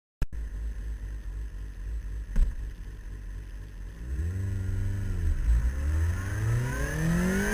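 Suzuki GSX-R 750 inline-four with an aftermarket LOR exhaust idling with a low rumble, with a sharp click a couple of seconds in. About four seconds in the engine gives a short throttle blip, and near the end the revs start climbing steadily as the bike pulls away under hard acceleration.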